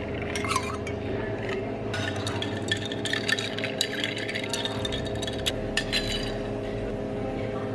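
Glassware and utensils clinking and knocking as they are handled, in scattered light strikes that cluster through the middle, over a steady hum of café equipment.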